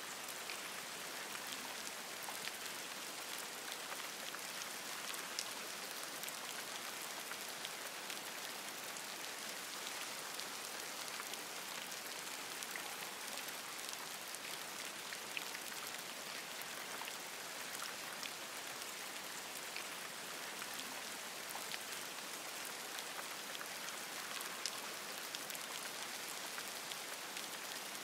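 Steady rain falling on forest leaves, with many scattered single drops ticking close by over an even hiss.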